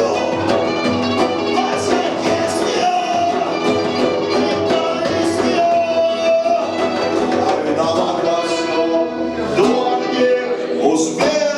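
Live punk rock band playing a song, with steady drum hits over dense amplified instruments.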